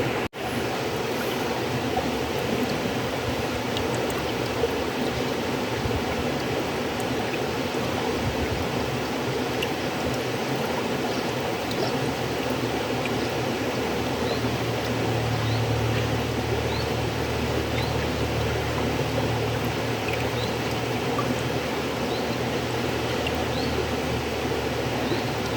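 River water flowing steadily, a dense, even rush of water. The sound cuts out for an instant just after the start.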